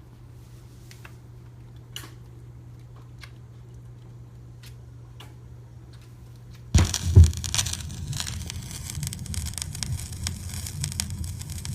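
Vinyl record on a turntable: a low steady hum with scattered ticks, then about seven seconds in a couple of loud thumps as the stylus meets the early-1980s record, followed by dense crackle and pops from the groove before the music begins.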